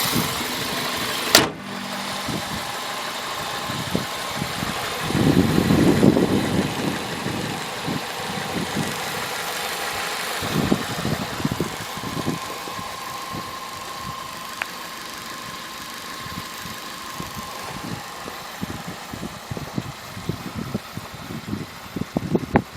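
1999 Toyota Celica's 1.8-litre four-cylinder 16-valve engine idling steadily. There is one sharp bang about a second and a half in, then a louder stretch of low rustling and irregular short knocks.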